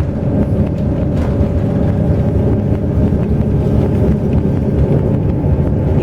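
Intercity bus running along the road, with a loud, steady low rumble of engine and road noise.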